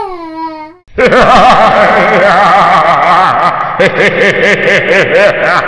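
A short falling voiced tone dies away in the first second. Then, from about a second in, a voice laughs in quick repeated rising-and-falling pulses, several a second.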